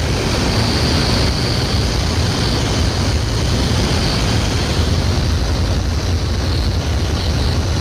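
Polikarpov I-16 fighter's radial piston engine and propeller running steadily, an even drone with no change in pitch.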